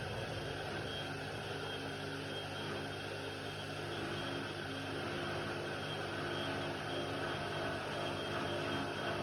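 Indesit WIDL 106 washer-dryer running: a steady motor hum with several held tones over a constant rushing noise.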